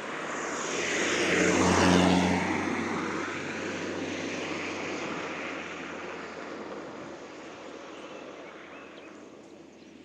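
A motor vehicle passing close by. Its engine and tyre noise swells to a peak about two seconds in, drops in pitch as it goes past, then fades slowly away.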